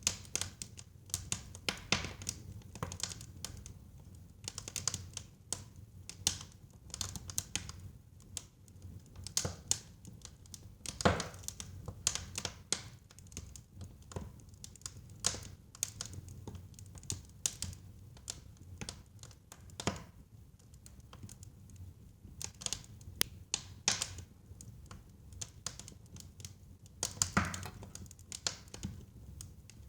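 Wood fire burning in a fireplace: irregular crackles and sharp pops over a low, steady rumble of the flames. One louder pop comes about eleven seconds in and another near the end.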